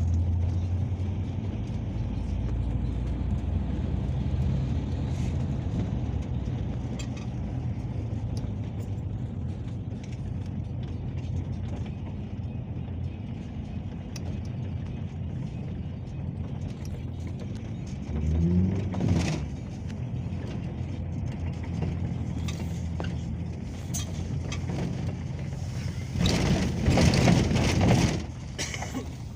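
Peugeot Boxer minibus in motion, heard from inside the cabin: a steady low engine drone with road noise. The engine's pitch rises and falls briefly about two-thirds of the way through, and a louder noisy stretch comes near the end.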